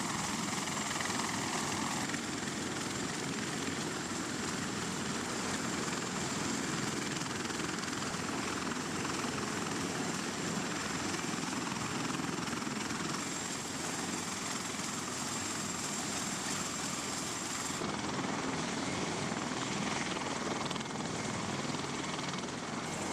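Helicopter running with a steady noise of rotor and engine, and a thin high whine that drops out abruptly about eighteen seconds in, where the sound changes.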